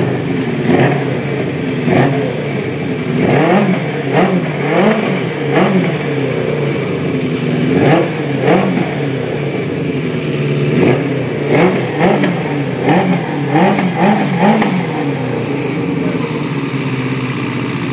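Kawasaki GPZ600 inline-four engine idling, its throttle blipped in short quick revs again and again. The revs come thick in the first half and again about 11 to 15 seconds in, with a steady idle between and near the end.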